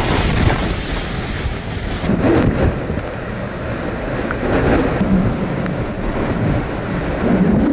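Hurricane wind blasting the microphone, with a dense, rumbling rush of wind and surf that never lets up. The sound changes abruptly about two seconds in, where one storm clip cuts to another.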